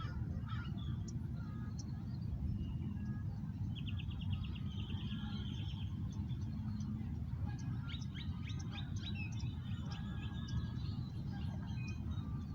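Small birds chirping, with a fast trill of quick repeated notes lasting about two seconds starting four seconds in and a burst of chirps later on, over a steady low rumble.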